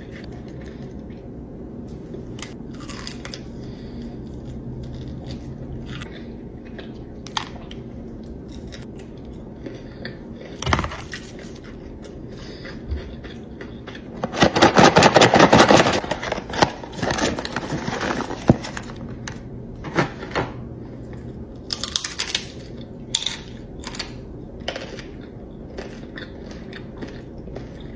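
Close-miked eating: scattered crunchy bites and chewing, with one loud run of rapid crunching about halfway through.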